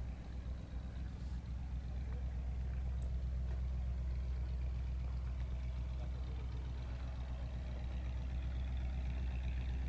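A steady low mechanical rumble, with no distinct events.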